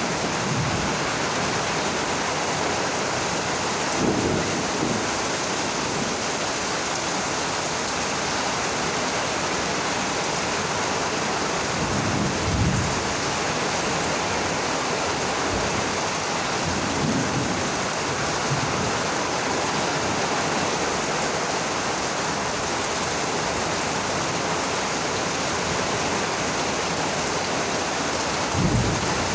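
Heavy rain falling steadily, a dense even hiss. Four short low rumbles rise out of it, spread across the stretch.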